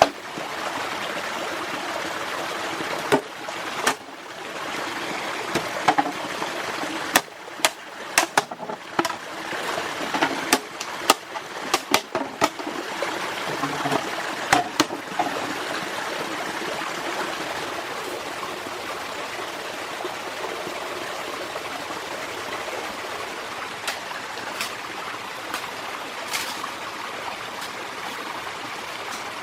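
Steady rushing of a forest stream, with a run of sharp clicks and knocks from about three seconds in to about fifteen seconds in.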